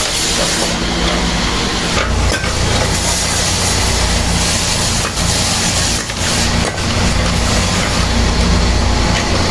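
Woodworking machinery running steadily with a motor hum while wood is cut or shaped, with a few sharp knocks.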